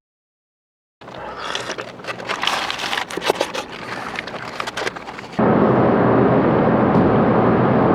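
After a second of dead silence at an edit, irregular crackling and rustling with many small clicks. About five seconds in, steady road and engine noise inside a moving car cuts in abruptly.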